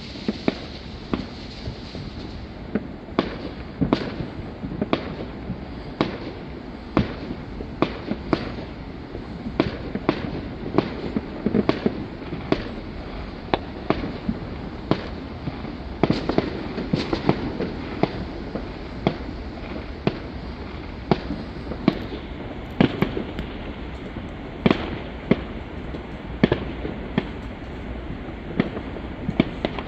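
Fireworks going off: a steady stream of sharp bangs and cracks at irregular intervals, roughly one or two a second, over a continuous rumble of further explosions.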